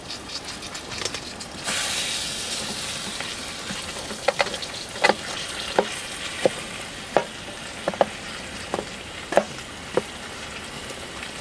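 Food sizzling in a hot pan. A steady hiss jumps up suddenly about two seconds in, as if the food has just gone in, and from midway it is broken by a dozen or so sharp pops and spits.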